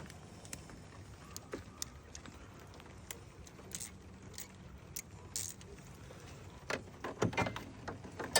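Scattered light clicks and knocks from hands handling parts while working under the hood, a few louder knocks about seven seconds in.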